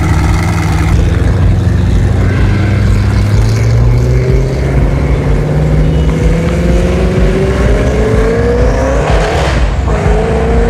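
A sports car's engine running under acceleration, its note climbing steadily. Near the end the note breaks off briefly, as at a gear change, then climbs again.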